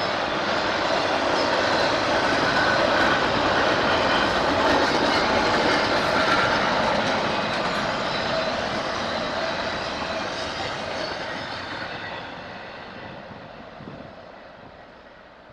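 A train rolling past, its wheels and cars making a dense rumble and hiss. It is loudest in the first half, then fades steadily over the last several seconds as the train moves away.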